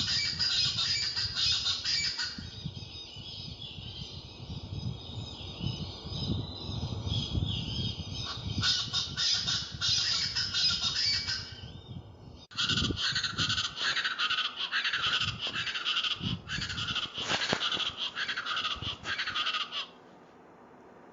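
East Brazilian chachalacas calling in a loud, harsh chorus. The chorus breaks off sharply about twelve seconds in, starts again at once, and stops abruptly near the end. A low rumble sits under the first half.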